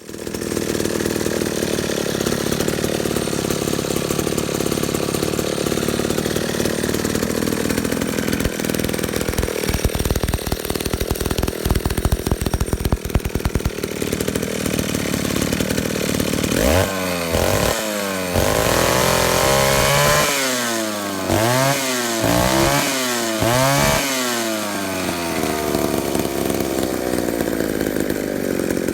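McCulloch 1-43 chainsaw's two-stroke engine running on test after a carburettor rebuild. It runs steadily, with an uneven patch midway, then is revved up and down several times in quick succession before dropping back to a steady run near the end.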